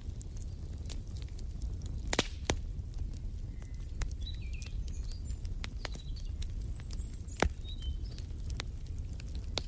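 Wood fire in a fireplace crackling: a steady low rumble with scattered sharp pops, two of them louder, about two seconds in and again near the end. Faint short bird chirps sound now and then in the middle.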